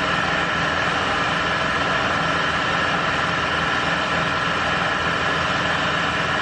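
Steady rush of air in a paint spray booth while clear coat is sprayed: the spray gun's air hiss over the booth's fans, with a faint steady whine, unchanging throughout.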